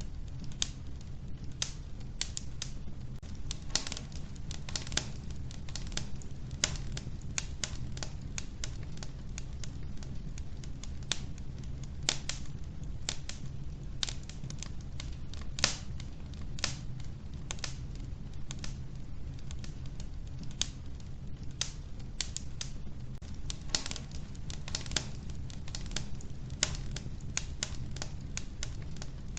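Wood fire burning in a wood-burning stove: logs crackling and popping at irregular intervals, several pops a second, over a steady low rumble of the flames.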